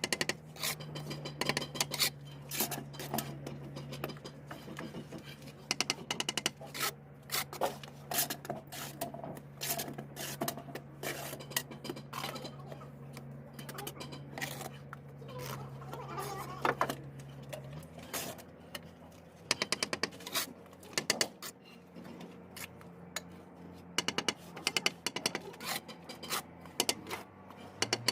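Bricklaying work: a steel trowel scraping and slapping mortar and tapping bricks into place, many sharp clicks and scrapes, over a low steady hum.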